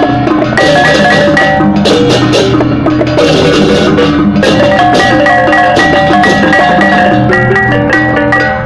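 Balinese gamelan music: bronze gong-chimes and metallophones ringing fast runs of interlocking notes over drums and clashing cymbals.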